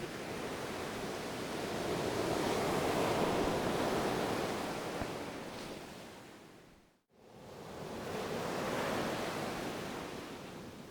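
Ocean waves washing on a shore: one surge swells and ebbs away, the sound drops out completely for an instant about seven seconds in, then a second wave swells and fades.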